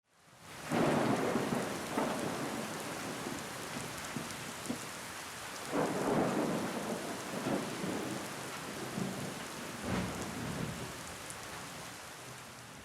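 Rain falling steadily with rolls of thunder, swelling about a second in, again near six seconds and once more near ten seconds, then dying down toward the end.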